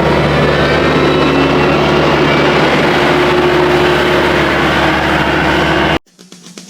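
A vehicle engine running steadily and loudly, with a constant low hum and a few held tones above it. It cuts off suddenly near the end, where rock music with a regular beat starts.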